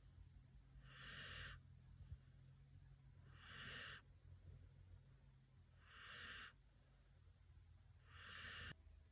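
Senior dog snoring faintly in its sleep: four breaths, each about half a second long, coming roughly every two and a half seconds.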